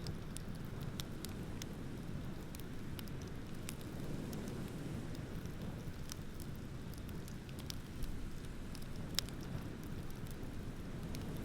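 Beach bonfire crackling with scattered sharp pops, a louder pop about nine seconds in, over a steady low rush of ocean waves.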